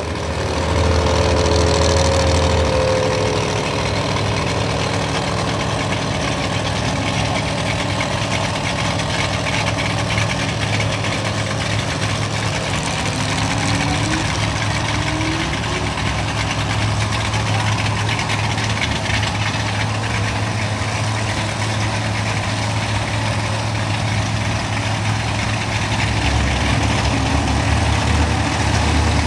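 Modified 5.9 L Cummins inline-six turbo-diesel in a 2004 Dodge Ram race truck, idling steadily.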